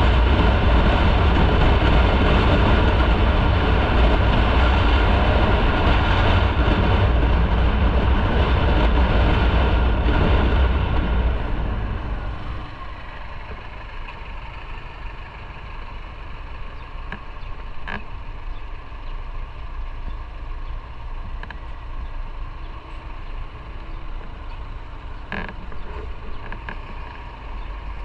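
Motorcycle on the road: engine and wind noise, loud and steady for about the first eleven seconds, then dropping to a quieter hum with traffic around as the bike slows.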